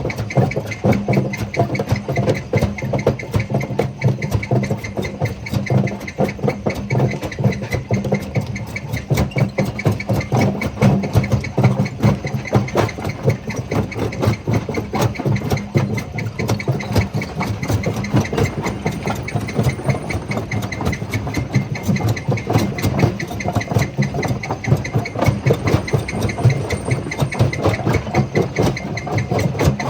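Jaw crusher running: a steady low machine hum under a continuous rapid clatter of stone being crushed.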